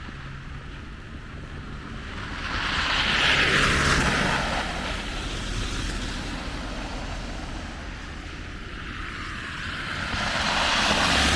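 Two vehicles passing on a snowy city street, the hiss of their tyres swelling and fading, once about three seconds in and again near the end, over a faint low hum of traffic.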